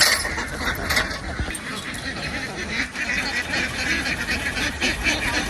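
A flock of domestic ducks quacking, many calls overlapping without a break.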